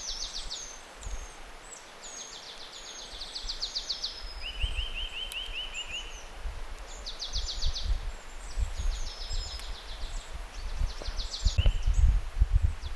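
Woodland songbirds singing: repeated fast, dry trills and short, high down-slurred whistles, with one lower trill about four seconds in. A low rumble of wind on the microphone grows over the last few seconds.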